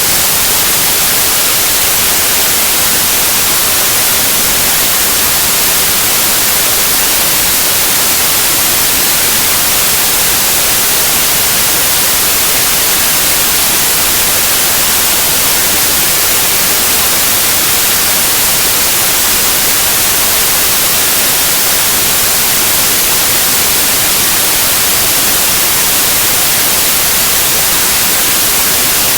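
Steady white noise: an even, bright hiss that stays the same throughout.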